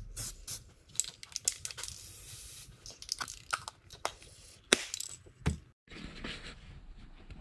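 Sped-up workshop audio from spray painting: short hisses of an aerosol spray can among rapid clicks and knocks of parts and the can being handled. The sound cuts off abruptly just before six seconds in and picks up again with a different steady hiss.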